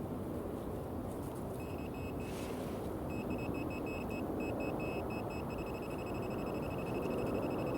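Metal detector beeping on a target: a high-pitched electronic tone in short rapid pulses, starting a couple of seconds in and running almost continuously later, over a steady low rustling noise.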